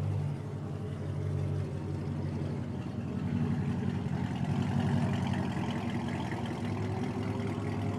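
Car engine running with a low, steady note; about two and a half seconds in the engine speed climbs, then eases back down a few seconds later.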